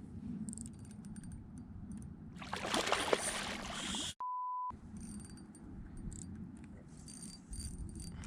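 A half-second steady censor beep about four seconds in, with all other sound cut out under it, the kind used to bleep out a swear word. Just before it comes a loud rush of noise lasting about a second and a half, over a low rumble.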